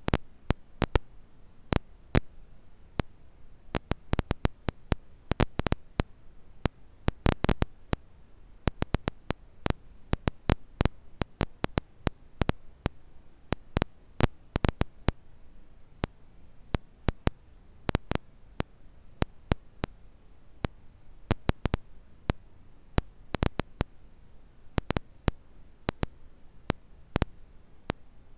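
Campfire crackling: burning wood giving off sharp, irregular pops and snaps, often several in quick succession, over a faint steady hiss.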